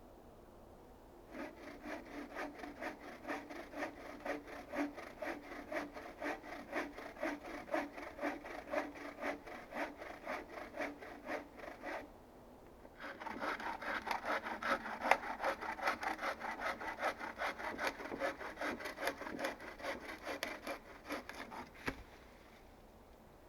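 Hand saw cutting through wood in quick, steady back-and-forth strokes. It runs for about ten seconds, stops briefly about halfway, then saws on for another nine seconds before stopping.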